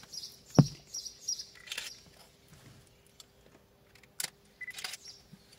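Small birds chirping in short high notes, with one sharp thump about half a second in and a faint steady hum underneath.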